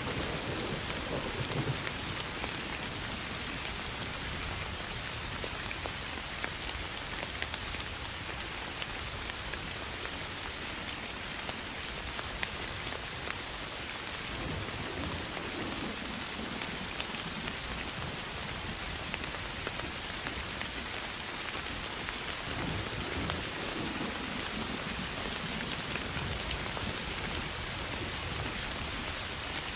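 Steady soft rain pattering on grass and field plants, with low rumbles of thunder swelling three times: at the start, about halfway through, and again a little later.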